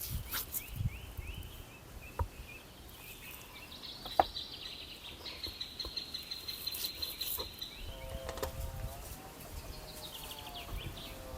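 Birds chirping and trilling, with a fast, even trill in the middle and, from about eight seconds in, a lower wavering call. A few sharp clicks or knocks cut through, the loudest about four seconds in.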